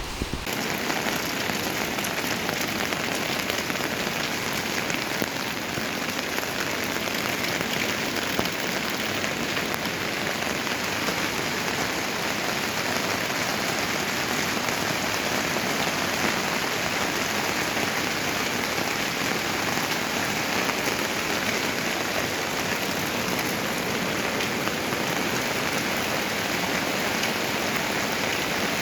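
Heavy rain falling steadily: a dense, even hiss of drops beating on the ground and nearby surfaces, with no let-up.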